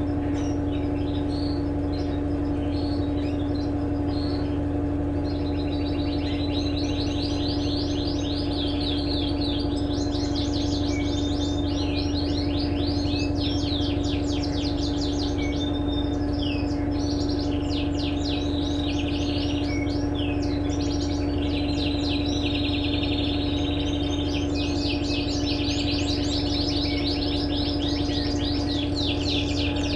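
Electrolux LTE12 washing machine running with a steady motor hum. Birds chirp over it in quick repeated trills.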